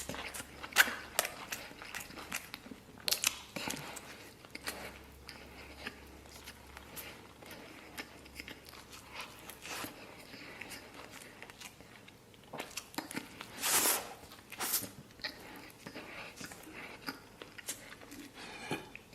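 Close-miked eating: biting into and chewing a lamb-stuffed flatbread sandwich (rou jia mo), with many short wet mouth clicks and crunches. The loudest bites come about two-thirds of the way through.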